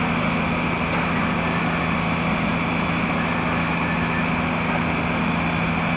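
A steady engine-like drone with a constant low hum and a wash of noise over it, unchanging throughout.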